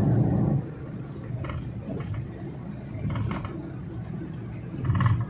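Car on the road: steady low engine and road rumble, loudest in the first half second, with a few short higher sounds over it.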